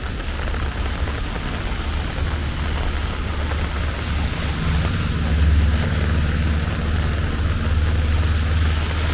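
Steady rain hiss under a low motor-like rumble that grows louder about halfway through.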